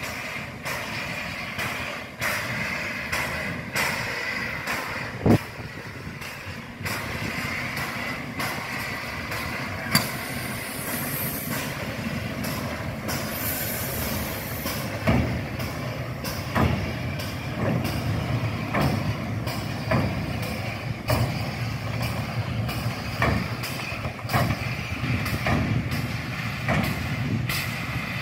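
MÁV class 424 steam locomotive working, with a burst of steam hiss about a third of the way in. From about halfway, slow exhaust beats come roughly once a second and quicken slightly, over a background of clanking.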